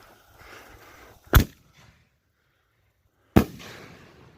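Two sharp firework bangs about two seconds apart, the second trailing off for a moment.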